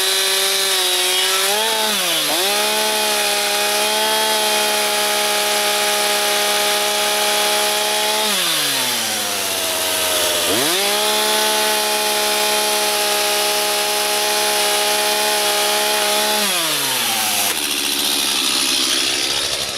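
Stihl two-stroke chainsaw at full throttle, sawing lengthwise through a log to cut rough lumber. The engine pitch dips briefly about two seconds in, drops to idle about eight seconds in and revs back up a couple of seconds later. It falls to idle again near the end and then stops.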